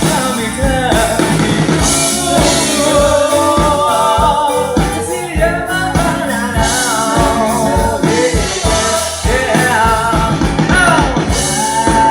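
A live band playing a song, with a steady drum beat under a wavering, sliding melodic lead line.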